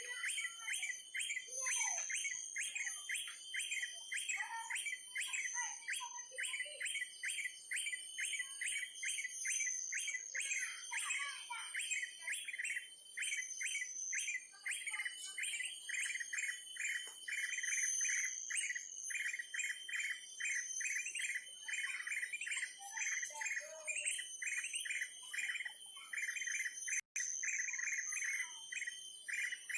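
Bird chirping: a rapid, even run of short, high chirps, several a second without pause, over a thin steady very high-pitched whine.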